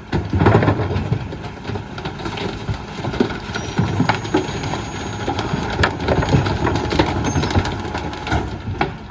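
Diesel engine of a Mack MRU McNeilus rear-loader garbage truck running under load as the packer crushes bulk trash in the hopper, with many sharp cracks and clunks from items breaking.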